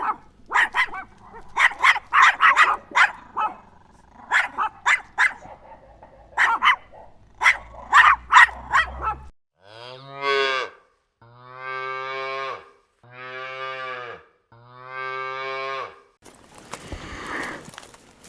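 A dog barking in quick runs of short barks for about the first nine seconds, then a cow mooing four times, each moo about a second long. A rustling noise follows near the end.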